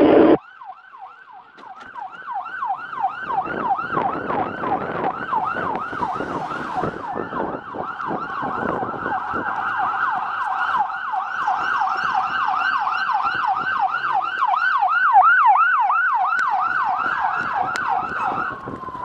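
Police siren in fast yelp mode, sweeping up and down about four times a second. It fades in over the first few seconds, then holds steady.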